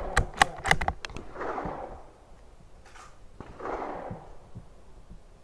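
Tikka T1x .22 LR bolt-action rifle's bolt being worked after a shot: a quick run of sharp metallic clicks in the first second, then two softer rustling sounds.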